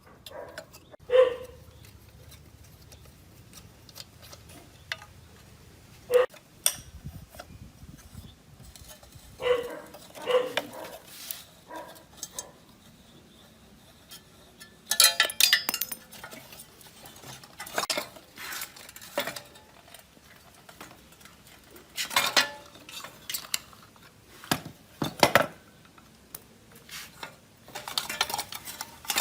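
Metal tools and engine parts clinking and clattering against each other, with scattered single knocks that ring briefly and a few short bursts of scraping clatter in the middle and near the end.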